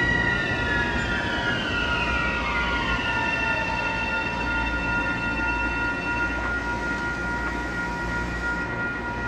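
Metro-North train with GE Genesis P32AC-DM locomotives running past, a steady rumble under a set of high tones that slide down in pitch over the first three seconds and then hold level.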